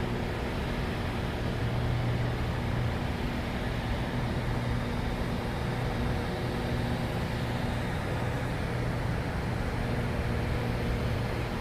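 Helicopter in flight heard from inside the cabin: a steady low hum over a constant rushing noise.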